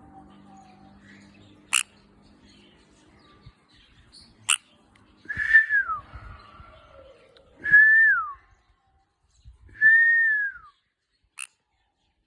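Sun conure whistling three clear notes about two seconds apart, each held and then dropping in pitch, with a few sharp clicks between them.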